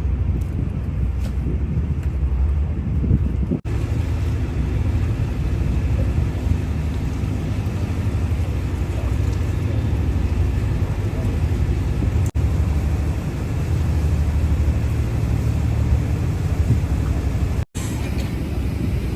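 Steady low rumble of a boat's engine running at sea, mixed with wind and water noise, cut off for an instant a few times.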